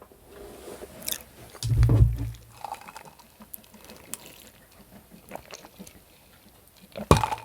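Close-miked chewing of ribeye steak, with wet mouth clicks. There is a low thump about two seconds in and a quick run of sharp clicks near the end.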